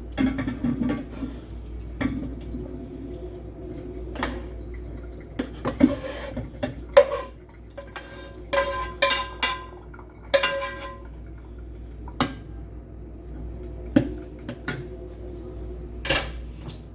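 Metal cookware clattering while cooked ground beef is drained in a strainer: scattered scrapes and sharp knocks of a utensil against the pan and strainer, several of them ringing briefly.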